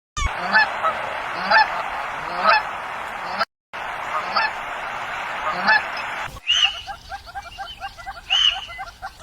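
Domestic fowl, probably geese, honking about once a second over a noisy flock background. After a cut, a quicker run of short chirping calls with a few higher arched calls.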